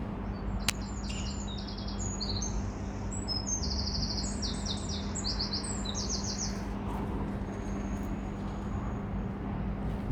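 Songbird singing: bursts of rapid repeated high notes, ending in a thin held note, over a steady low background hum.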